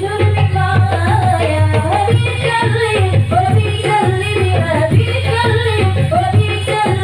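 Marawis ensemble performing: Arabic-style hand drums beat a steady, dense rhythm under singing.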